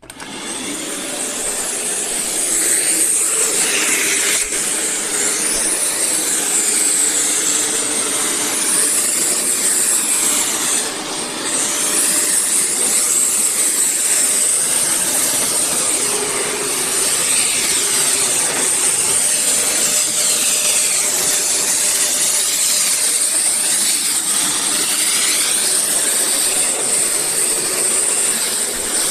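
Eureka WhirlWind NEN110A bagless canister vacuum cleaner switching on, its motor spinning up over the first second or two. It then runs steadily with rushing air and a high hiss, with a brief dip in level about eleven seconds in.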